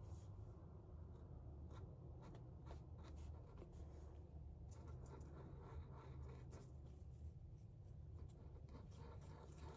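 Faint, irregular scratchy strokes of a paintbrush working paint onto a surface, over a steady low hum of room tone.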